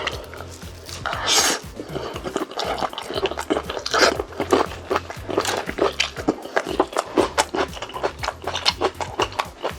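Close-miked chewing of roast chicken: wet smacks and crunches several times a second, with a louder crunchy bite about a second in. Background music plays underneath.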